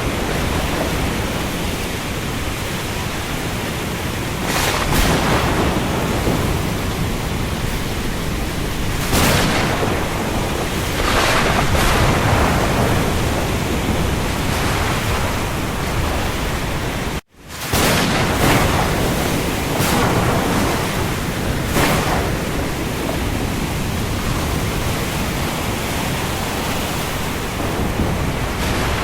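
Heavy rain over the open sea: a dense, steady rushing noise that swells every few seconds. It cuts out for an instant a little past halfway.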